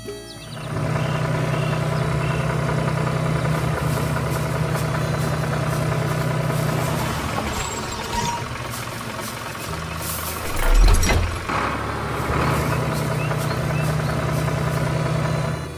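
A heavy vehicle's engine running steadily, weaker in the middle stretch, with one loud deep thump about eleven seconds in.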